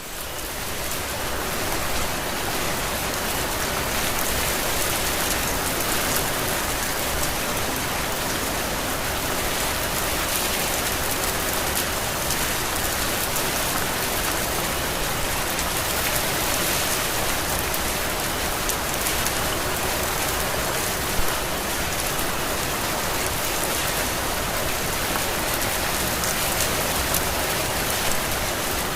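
Heavy rain falling steadily as a dense, even hiss of drops. It swells up over the first couple of seconds, and one drop lands louder about 21 seconds in.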